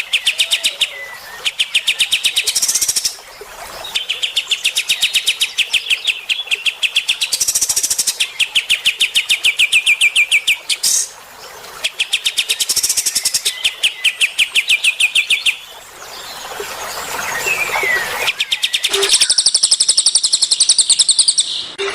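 A songbird singing loud, fast trills of rapidly repeated notes in bursts of two to three seconds, again and again with short breaks. Near the end a higher, thinner trill takes over.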